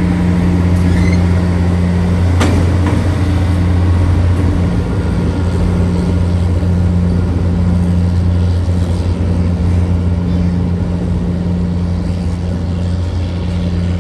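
Diesel excursion train pulling away, giving a loud steady low drone at a constant pitch. A single sharp clank comes about two and a half seconds in.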